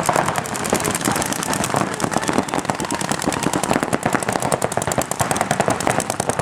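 Several paintball markers firing rapid, overlapping strings of shots, a dense fast popping with no pause.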